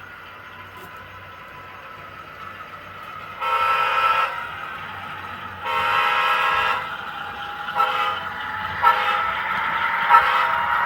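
S scale model train running on the layout while its sound system sounds the horn: a blast of about a second some three and a half seconds in, a second one about six seconds in, then more horn from about eight seconds on. Under the horn there is a steady low running noise.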